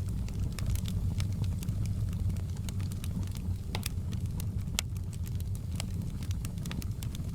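Wood fire in a hearth crackling and popping, with irregular sharp snaps over a steady low roar.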